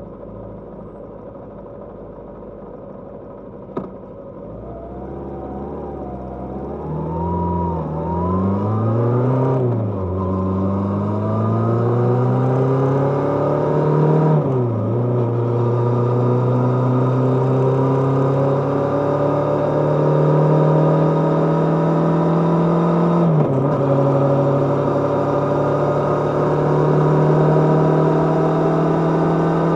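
Kawasaki GPz550's inline-four engine at low revs, then pulling away and accelerating up through the gears, its pitch climbing in each gear and dropping at three upshifts, before rising slowly in a higher gear. A single sharp click sounds near the start, before it pulls away.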